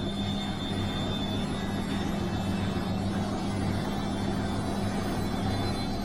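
Bosch washing machine running with a steady low motor hum over an even whir.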